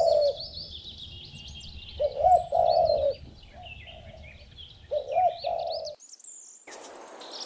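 Pigeon cooing in three phrases, with small birds chirping high above it. Near the end the cooing stops and a steady hiss takes over.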